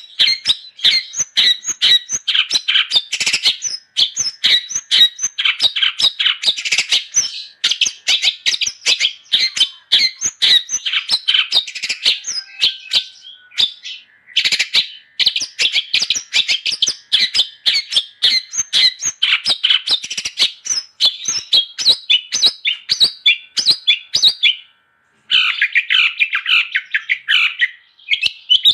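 Long-tailed shrike (cendet) singing in full voice: a fast, chattering stream of short high notes, broken by brief pauses a few times.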